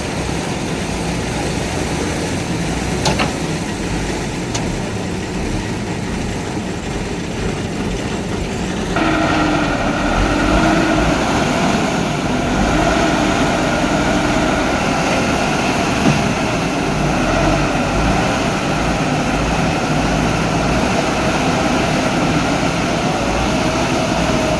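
Heavy vehicle engine running steadily during a truck recovery, growing louder about nine seconds in with a steady hum.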